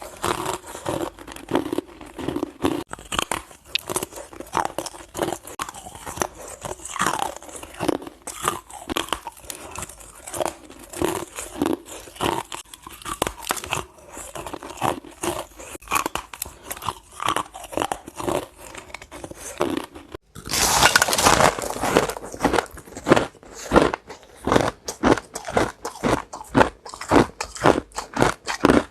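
Ice being bitten and chewed, with a continuous run of irregular crunches. About two-thirds of the way in there is a brief gap, then a loud, dense burst of crunching. After that the crunches come quickly, about two a second.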